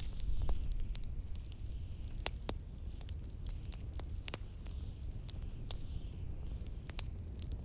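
Wood fire crackling, with scattered sharp pops and snaps, over a steady low rumble of blizzard wind.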